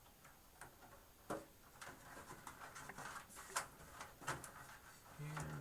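Scattered light clicks and taps of hands handling cables and parts inside a computer case, a few sharper knocks among them.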